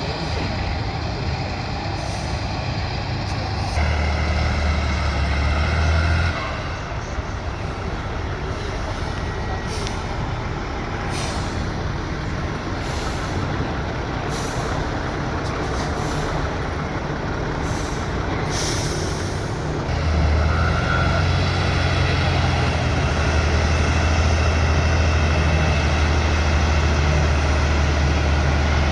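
Heavy competition truck's diesel engine running under load. It pulls harder for a couple of seconds about four seconds in, then works steadily louder from about two-thirds of the way through. Several short air hisses come in the middle.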